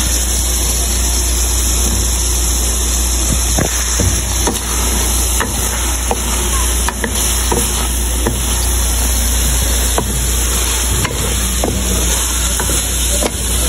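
Cauliflower and mutton masala frying in an aluminium pot as a wooden spatula stirs and scrapes through it, with scattered taps of the spatula against the pot over a steady sizzle. A steady low hum runs underneath.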